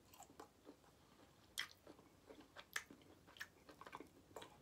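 Faint chewing of smoked beef brisket close to the microphone: soft wet mouth clicks and smacks, with two sharper smacks about one and a half and three seconds in.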